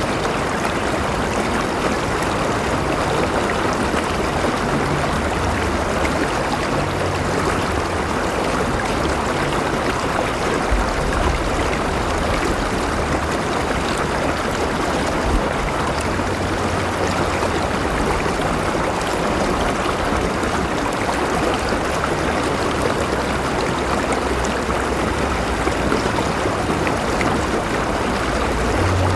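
River water flowing steadily over rocks, a continuous, even rush of moving water with some gurgling.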